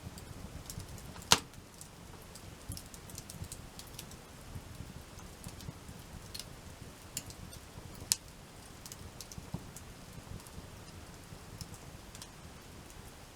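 Wood campfire crackling: irregular sharp pops and snaps over a low steady rumble, with a loud pop just over a second in and another about eight seconds in.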